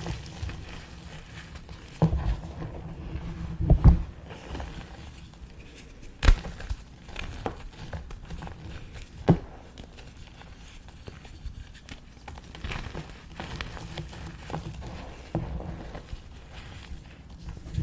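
Pieces of gym chalk being crushed by hand, crunching and crumbling, with several sharp cracks, the loudest about four seconds in.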